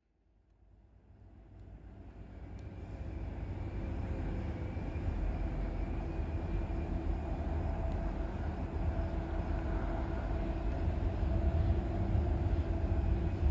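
Diesel locomotive hauling a VIA Rail passenger train: a steady low rumble of engine and rolling train, with a few held engine tones. It fades in over the first few seconds and grows somewhat louder toward the end.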